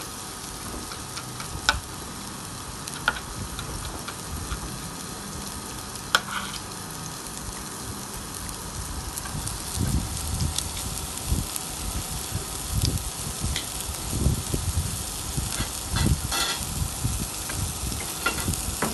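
Onion and chopped garlic sizzling in oil in a pan, with a few sharp knocks of a utensil in the first half. From about halfway, stirring scrapes and knocks against the pan grow louder over the steady sizzle.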